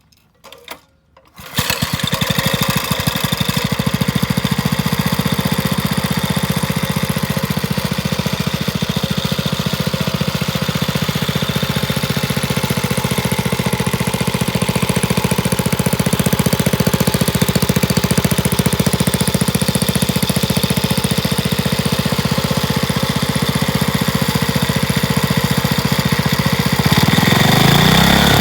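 Vintage 1969 Briggs and Stratton 5 hp single-cylinder four-stroke engine starting after a couple of short bursts, catching about a second and a half in, then running steadily. Its sound changes near the end.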